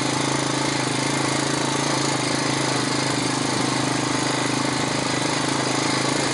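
Four-wheeler (ATV) engine running steadily while the ATV rides along a trail.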